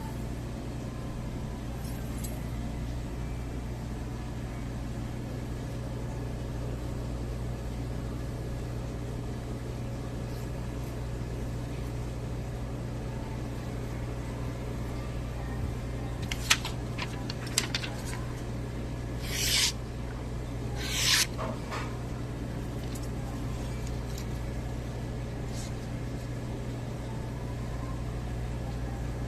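Steady low electrical hum, with a few light clicks and two short scraping strokes about twenty seconds in, a steel knife blade drawn across a water-lubricated ceramic whetstone.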